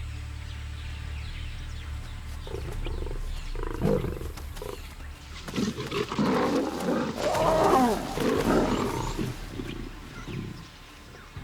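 Lionesses growling and snarling in a brief fight. The growls begin a few seconds in, are loudest in the second half, and die down near the end, over a low music bed.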